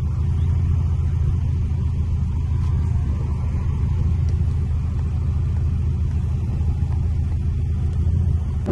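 Infiniti G37's 3.7-litre V6 engine and exhaust heard from inside the cabin as a steady low rumble while the car runs at an even pace.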